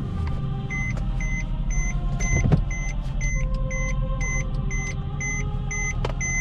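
Mercedes-AMG C63 (W204) 6.2-litre V8 idling with a steady low rumble. Over it, a short electronic warning chime from the car repeats about twice a second.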